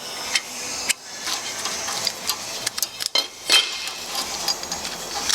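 Metal parts of a hydraulic cylinder clinking and knocking as they are handled, a few sharp clicks scattered through, the loudest about three seconds in.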